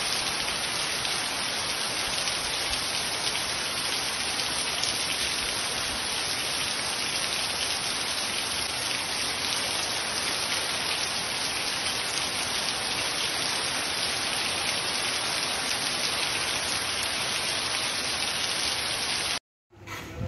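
Heavy rain falling hard, with water pouring off a tiled roof edge: a dense, steady hiss that cuts off sharply near the end.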